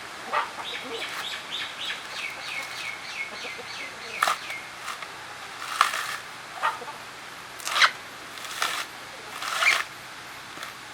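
A bird calls a quick run of high notes that step downward in pitch over about four seconds. Then come about six sharp cracking or tearing strikes, roughly a second apart, as the coconut husk is worked apart.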